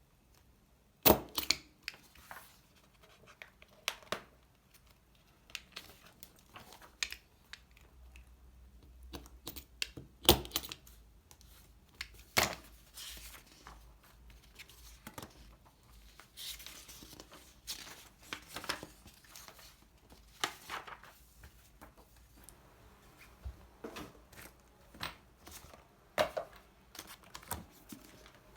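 Objects being handled at a desk: scattered light taps and clicks, the loudest about a second in and around ten and twelve seconds in, with stretches of paper rustling between them.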